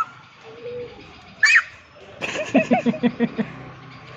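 A baby vocalizing in bird-like squeaks: a short high squeal about one and a half seconds in, then a quick run of about six short cooing notes.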